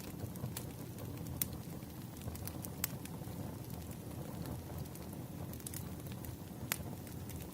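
Burning firewood crackling: a steady low rumble of the fire with scattered sharp pops, the loudest three of them about a second and a half in, near three seconds, and near the end.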